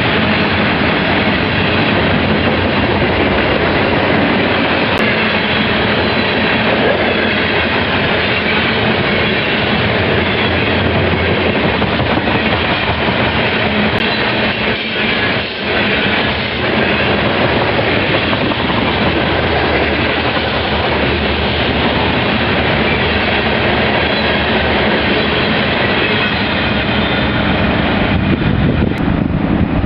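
Loaded BNSF coal train rolling past at speed: a steady loud rumble and clatter of steel wheels on rail from the hopper cars, with a brief lull about halfway through.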